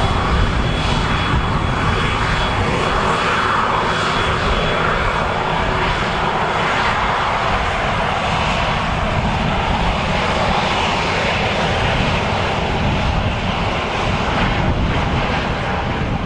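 Airliner's engines running at high power: a loud, steady roar, with a faint high whine over it in the first few seconds.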